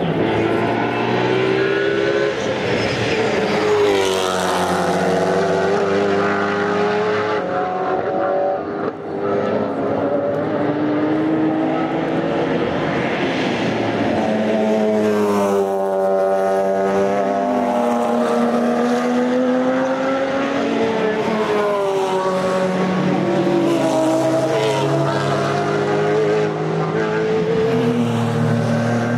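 Several GT3 race cars on open exhausts passing one after another at speed, engine notes overlapping and rising and falling in pitch as they approach, go by and shift gear, with one close pass about halfway through.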